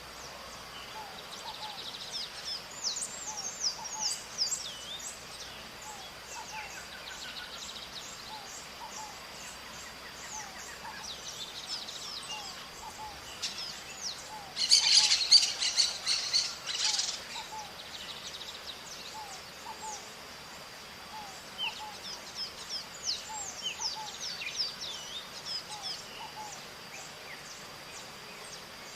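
Maritacas, small parrots, giving many short, high, screeching calls, with a loud dense burst of calls about halfway through. A steady high whine runs underneath.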